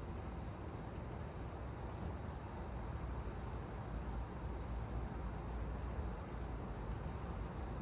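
Steady rumble and hiss of city road traffic, with no single vehicle standing out.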